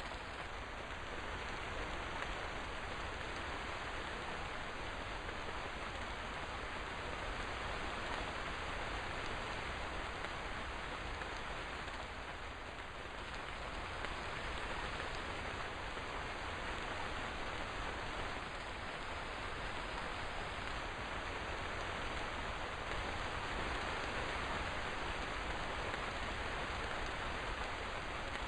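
Steady rain falling, with gentle swells in intensity.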